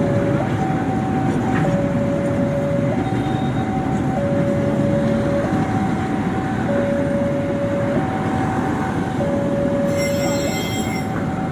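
A train rolling past with a steady rumble of wheels on rail. Over it, a two-tone siren alternates between a higher and a lower note, switching about every second and a quarter.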